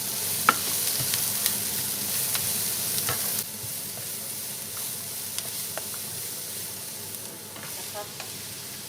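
Onion and garlic sizzling in hot oil in a frying pan while being stirred, with scattered clicks of the spatula against the pan. The sizzle drops noticeably about three and a half seconds in.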